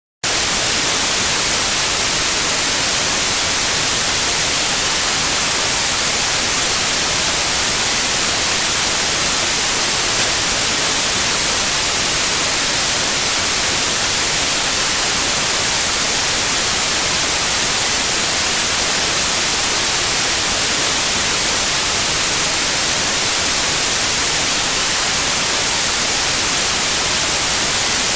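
Synthetic white noise, an even steady hiss, for tinnitus therapy. A single steady high-pitched 9645 Hz tone joins it about eight seconds in and holds level.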